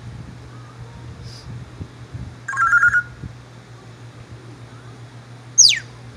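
African grey parrot imitating a telephone: a half-second trilling ring about two and a half seconds in, then a quick downward-sliding whistle near the end.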